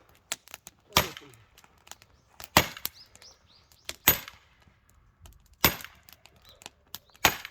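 A metal tool striking firewood five times, evenly, about every second and a half: sharp woody hits, each with a short metallic clang, as wood is split or broken up.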